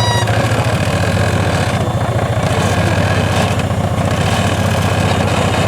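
Modified off-road competition truck's engine idling steadily, with an even, rapid firing rhythm.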